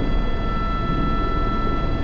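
Airbus H125 (AS350 B3) helicopter in flight with a sling load, heard from the cockpit: the single turboshaft engine and gearbox give a steady whine of several pitches over the low, even rumble of the rotor.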